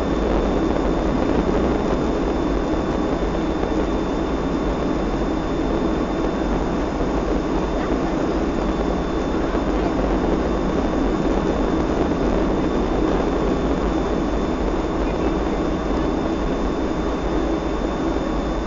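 Steady cabin noise of a Boeing 757-224 airliner: the even rushing of its jet engines and airflow heard from inside the cabin, with a thin, steady high whine over it.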